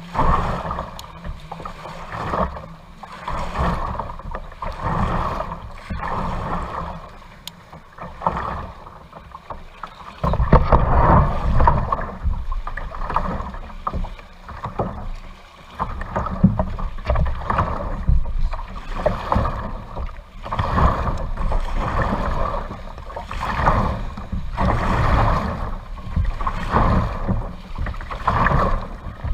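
Kayak paddle strokes swishing and splashing through lake water in a steady rhythm, about one stroke a second, with a low rumble from about ten seconds in.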